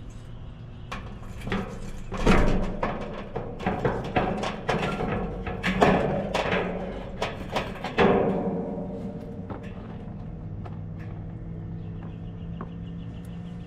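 Sheet-metal clanks and knocks from an outdoor AC condenser cabinet being handled, the loudest about two, six and eight seconds in, followed by a steady low hum.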